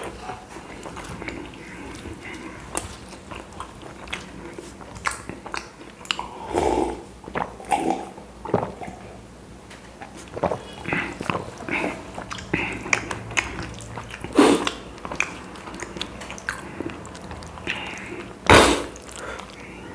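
A person eating chapati close to the microphone: chewing and biting, with irregular mouth clicks and smacks, and two louder knocks, one a little past the middle and one near the end.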